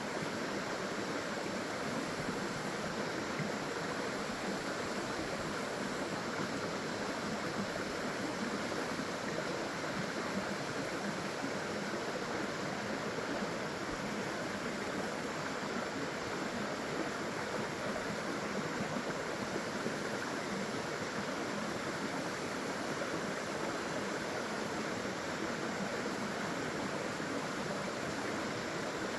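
Small waterfall, water pouring and splashing in a steady, unbroken rush.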